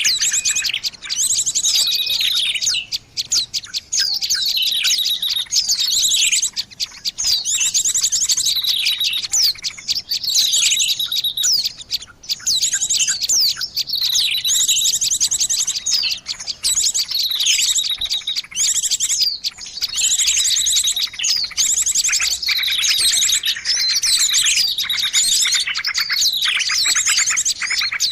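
Many small birds chattering and calling at once: a dense, unbroken mix of rapid high trills and short down-slurred chirps. It is the noisy, agitated chorus used as a bird lure.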